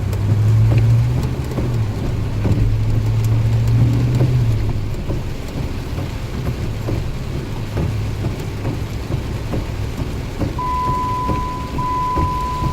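Heavy rain falling steadily, with a vehicle's engine running low and loud for the first few seconds. Near the end a steady high-pitched beep starts, broken once briefly.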